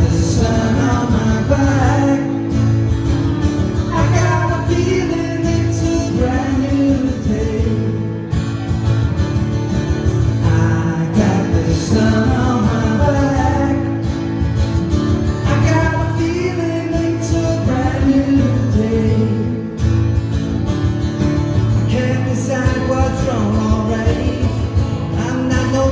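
Live band music with guitar over a steady beat.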